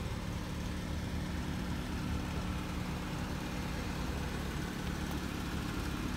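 Car engine idling steadily: an even, low hum with no change in speed.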